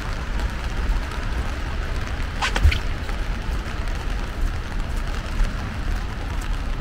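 Steady rain hiss along a city street, with a low rumble and scattered faint ticks of drops. A brief high squeal comes about two and a half seconds in.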